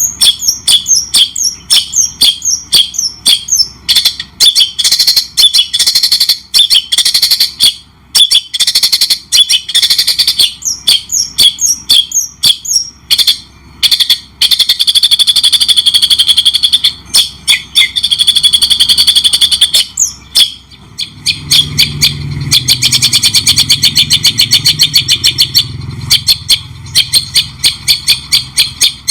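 White-rumped shama (murai batu) singing loudly and continuously in fast, varied phrases of repeated chirps and rattling trills, with a few short breaks. A low rumble sits under the song for several seconds past the middle.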